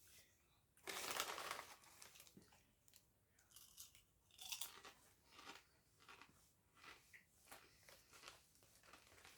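Crisps being bitten and chewed close to the microphone: one loud crunch about a second in, then a run of short crunching chews, about two a second.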